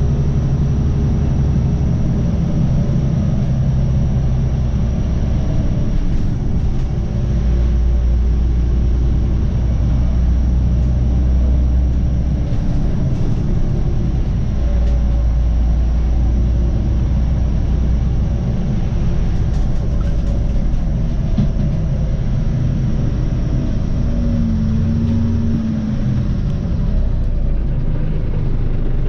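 Scania OmniCity city bus engine running, a steady low rumble whose note shifts up and down as the revs change, with a brief gliding tone a little after two-thirds of the way through.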